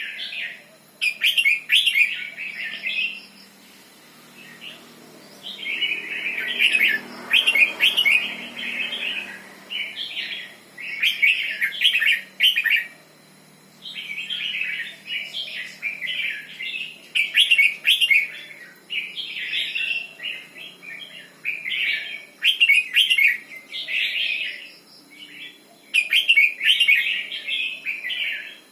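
Red-whiskered bulbul singing: short, warbling phrases repeated again and again with brief pauses between them, the doubled-phrase style that Thai bulbul keepers call 'beun'.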